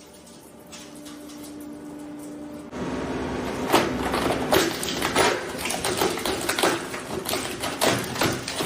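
Shredder running with a steady hum, then about three seconds in it grows louder as the plastic Super Soaker toy gun is crushed, with many sharp cracks and snaps.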